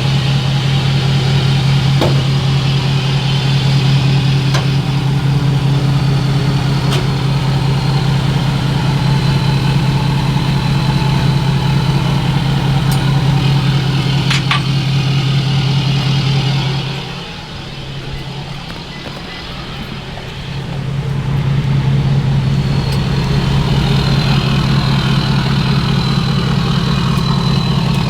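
Tow truck's engine idling with a steady low hum, dropping away for a few seconds past the middle before coming back. A few sharp clicks and clanks of the hook-up gear sound over it.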